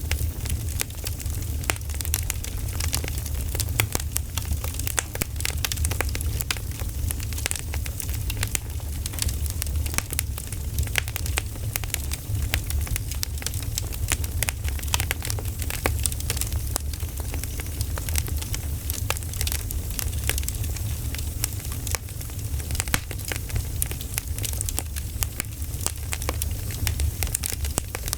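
Campfire crackling: a dense run of sharp pops and snaps from burning wood over a steady low rumble of the flames.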